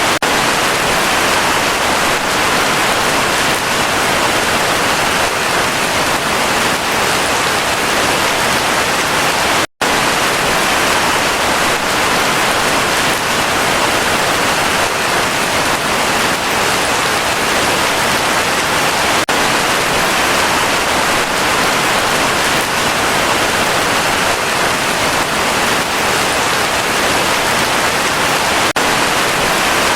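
Heavy rain falling steadily, a dense even hiss, with a brief cut to silence about ten seconds in.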